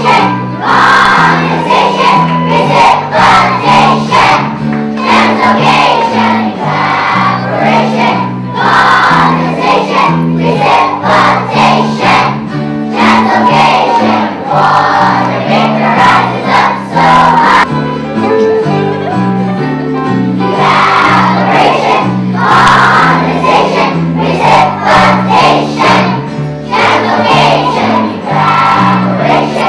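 A group of young children singing a song together over instrumental accompaniment. The voices drop out for a couple of seconds a little past halfway while the accompaniment plays on.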